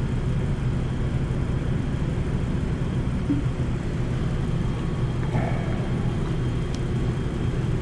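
A steady low hum or rumble of background machinery, even throughout, with a faint brief clink about five to seven seconds in.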